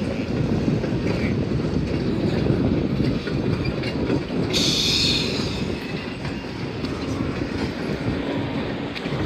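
Freight train cars rolling along the track with a steady heavy rumble and clicking wheels. A short high-pitched burst of noise sounds a little past halfway through.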